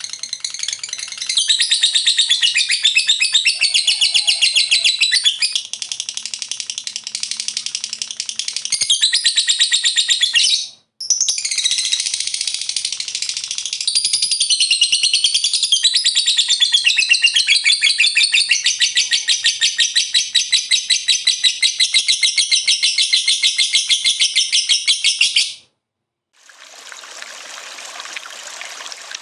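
Lovebird 'ngekek' song: a long, very rapid, high-pitched chattering trill, delivered in two long bouts with a break of about a second near the middle. Near the end the bird stops and the sound of running water takes over.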